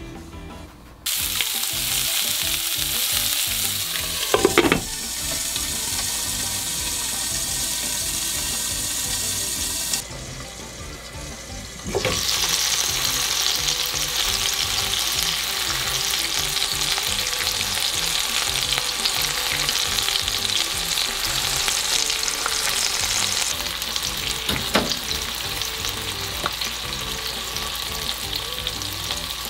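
Chicken-thigh and green-onion yakitori skewers sizzling in oil in a frying pan, starting suddenly about a second in. There is a sharp knock about four seconds in, and the sizzling drops away briefly around ten seconds before resuming. A smaller click comes near the end.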